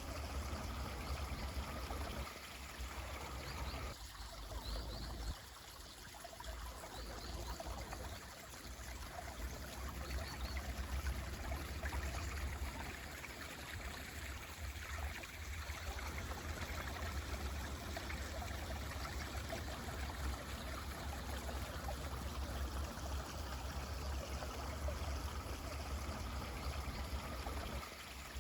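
Mountain stream flowing steadily over rocks, with a few faint high bird chirps in the first ten seconds.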